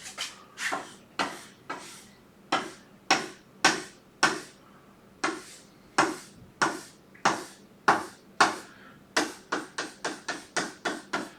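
Rapid back-and-forth pen strokes shading in a region of a drawn diagram, each stroke a short scratchy swish, about two a second, quickening near the end.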